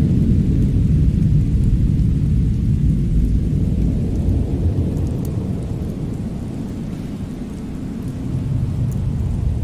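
Low, rumbling winter wind that swells and eases, dipping a little past the middle and building again near the end, with a few faint ticks on top.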